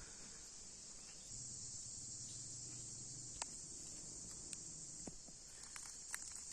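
Crickets or other insects chirring steadily, with a few sharp clicks scattered through the second half.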